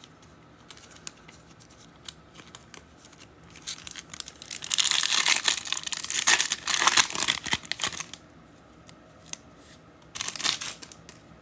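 Trading card pack wrapper being torn open and crinkled: a few seconds of dense crackling beginning about four seconds in, then a shorter crinkle near the end.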